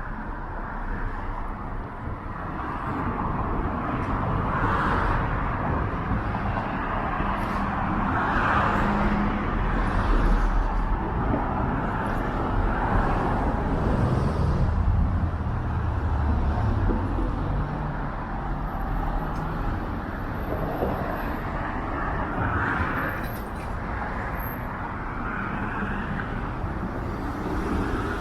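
Steady city street traffic: cars driving past on a busy road, a continuous rumble and tyre noise that swells and fades as vehicles go by.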